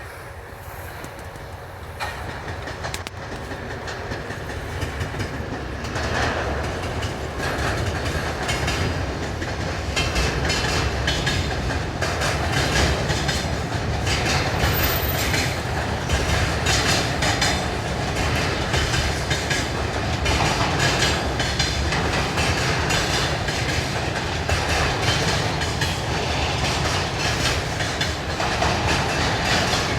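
A freight train hauled by a 2TE116 diesel locomotive rolls in, growing louder over the first ten seconds or so. After that a steady rumble goes on, with the wheels clattering in a close, irregular rhythm over the rail joints as the wagons pass.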